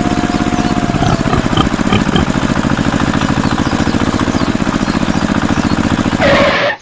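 Small engine of a mini tractor running steadily with a fast, even chugging, cutting off abruptly near the end.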